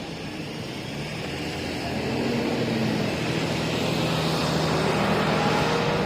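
Heavy diesel farm machinery engine running steadily, growing louder from about a second in as it comes closer, then holding.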